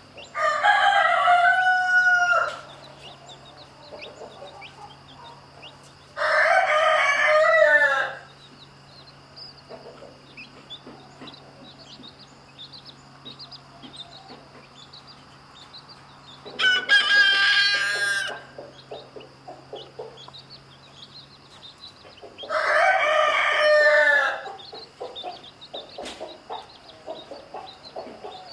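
Rooster crowing four times, each crow about two seconds long, with chicks peeping faintly in between.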